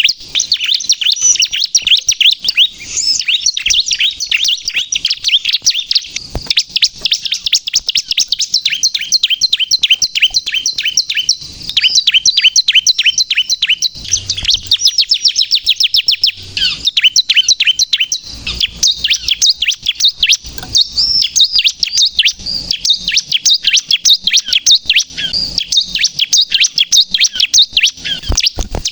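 Ciblek kristal (bar-winged prinia) singing without pause: a fast, unbroken string of high, sharp chirping notes, several a second.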